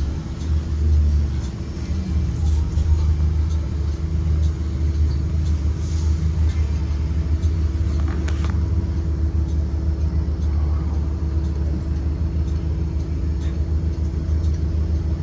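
2023 Blue Bird Vision school bus driving, a steady low engine and road rumble with a constant hum, heard from inside the bus.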